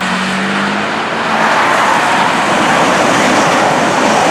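Loud, steady roar of heavy motorway traffic, with a short low hum in the first second.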